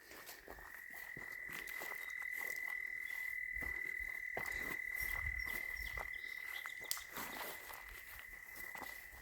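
Frog giving one long, unbroken high trill at a steady pitch.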